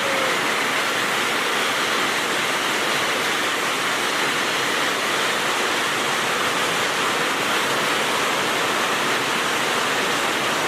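Cold pyro sparkler fountains firing together, giving a steady, even hiss.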